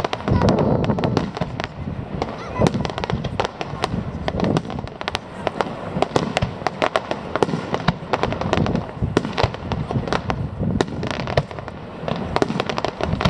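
Fireworks display: a rapid, continuous barrage of aerial shell bangs and crackling, several reports a second.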